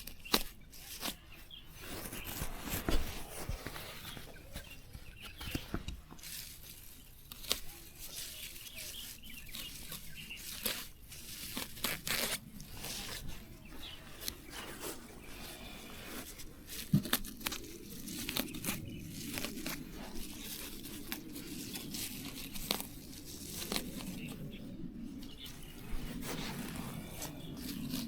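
Irregular crisp tearing, snapping and rustling, like plant material being pulled up and torn by hand.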